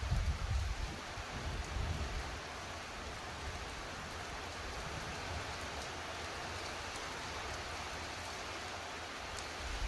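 Rain falling steadily during a thunderstorm, an even hiss. Gusts of wind buffet the microphone in the first couple of seconds, then ease.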